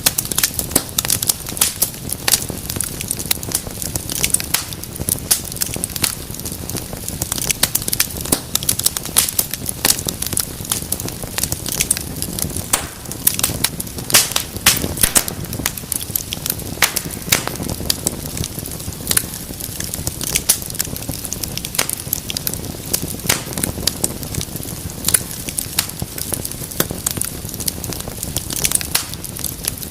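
Wood fire in a fireplace crackling and popping: many sharp, irregular pops over a steady low rumble of the flames.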